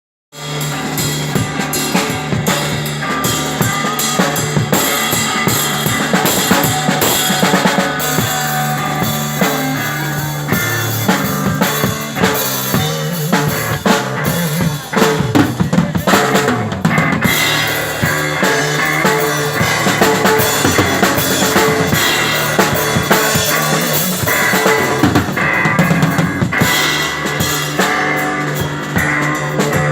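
Live rock drum kit playing a busy beat of kick, snare and cymbal strokes over a held low electric guitar note.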